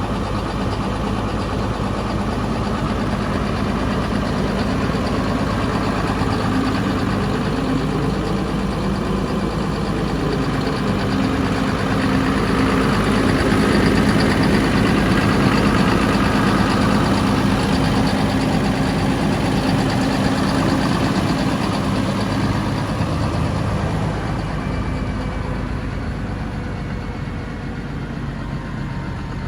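Claas Arion 630 tractor's six-cylinder diesel engine idling steadily, growing louder about halfway through and a little quieter near the end.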